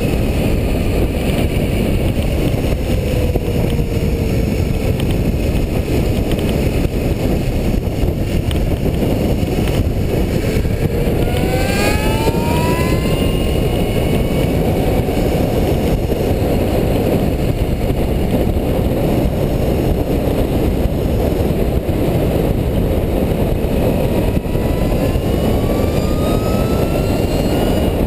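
Heavy wind rush on the microphone of an onboard camera on a scratch-built 28 hp electric bicycle at race speed. The electric drive's whine dips slightly about three seconds in, then rises steeply in pitch about eleven seconds in and again near the end as the bike accelerates.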